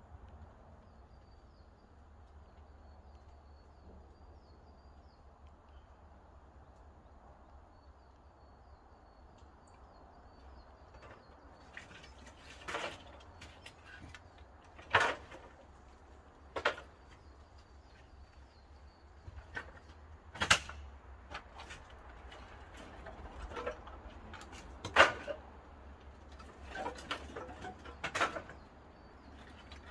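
Wood-fired kiln burning pine firewood: a low, steady rush of fire, then from about eleven seconds in a string of sharp wooden knocks and cracks, roughly eight, at uneven gaps.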